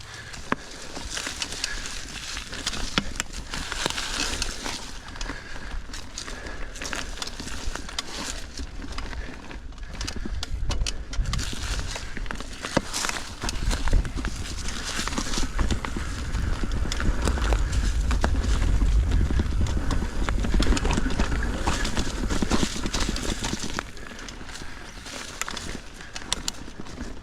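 Mountain bike riding over rocky trail: tyres crunching on rock and the bike rattling, with frequent sharp clicks and knocks. A low rumble on the microphone swells through the middle and fades near the end.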